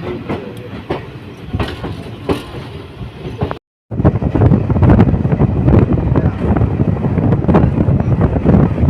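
Passenger train running on the track, its wheels clicking over rail joints above a steady rumble. The sound cuts out for a moment about a third of the way in, then comes back louder and rougher.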